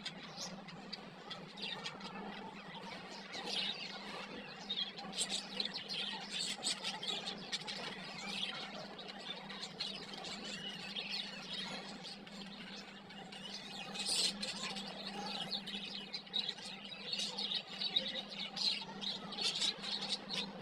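Budgerigars chattering in rapid, short, high chirps and squeaks, busier in the second half, over a steady low hum.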